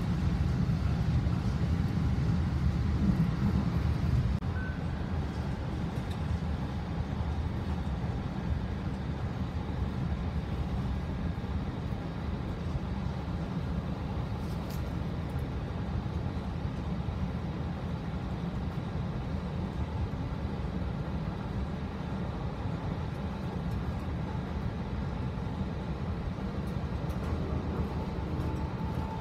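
Steady low rumble of a moving passenger train heard from inside the carriage, a little louder for the first few seconds.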